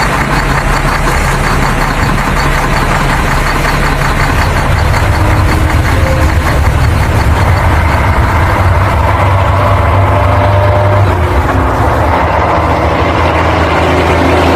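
A heavy vehicle's engine running steadily, with a fast, even chug.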